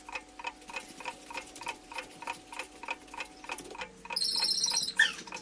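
An edited-in clock-like ticking, about four even ticks a second over a held low note. A little before the end the ticking stops and a high, twinkling sound comes in.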